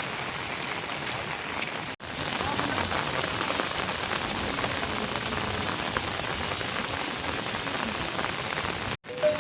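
Steady rain falling, a dense even hiss dotted with many small drop impacts. The sound cuts out for an instant about two seconds in and again near the end.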